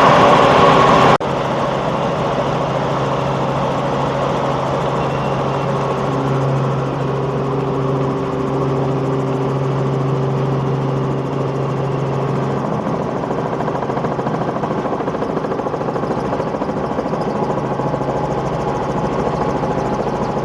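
Helicopter in flight: a steady drone of engine and rotors with a constant low hum. A much louder rushing noise fills about the first second and cuts off suddenly.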